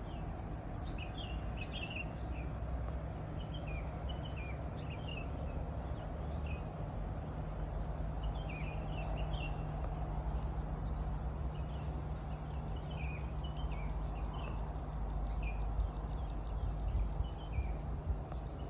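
Songbirds chirping and twittering, with short notes, a few quick rising whistles and a rapid high trill in the second half. Beneath them runs a steady low background rumble.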